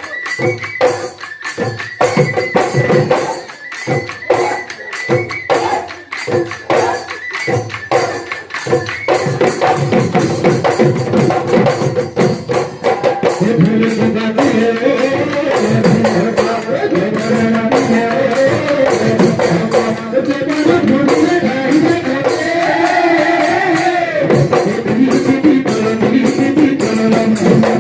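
Bihu husori folk music played live: drums and jingling percussion beating a fast, even rhythm, with group singing joining about halfway through.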